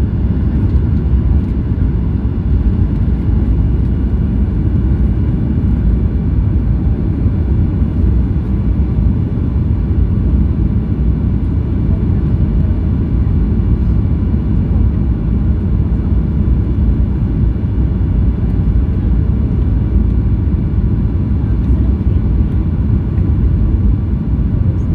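Steady low rumble of airliner cabin noise, the engines and airflow of a flydubai Boeing 737 heard from inside, with a few faint steady tones above it.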